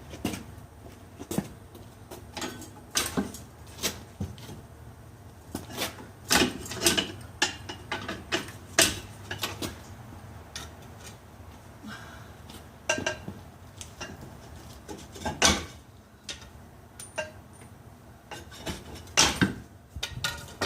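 Metal hand tools clinking and knocking against metal at an irregular pace, a few of the strikes ringing briefly.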